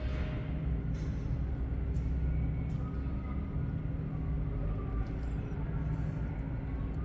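Steady low rumble with a constant hum from airport machinery around a parked jet.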